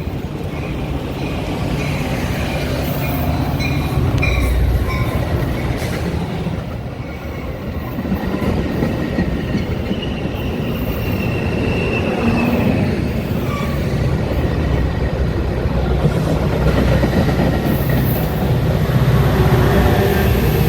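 Metra commuter train running on the rails: a steady heavy rumble, with brief high wheel squeals now and then.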